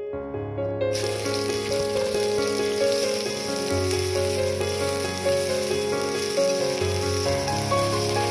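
Diced red onion sizzling in hot oil in a frying pan. The sizzle starts suddenly about a second in, as the onion hits the oil, and then carries on steadily. Background music plays under it.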